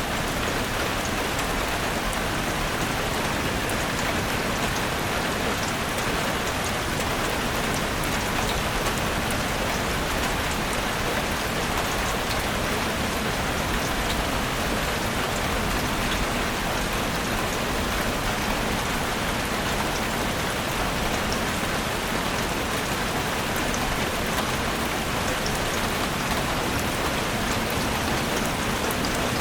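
Steady rain falling in a forest: an even hiss that holds level throughout, with faint scattered ticks of single drops.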